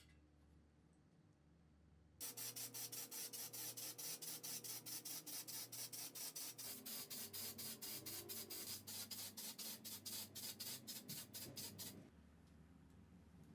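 Steady back-and-forth rubbing strokes by hand on a part, about four strokes a second, starting about two seconds in and stopping near the end.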